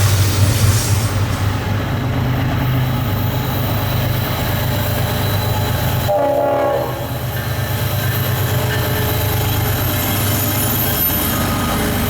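CSX intermodal freight train running past with a steady low diesel rumble and rolling noise. About six seconds in there is a short horn blast lasting about a second.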